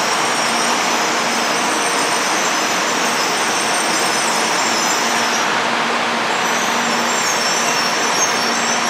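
Shinkansen train running, a steady, even rushing noise with no change in level.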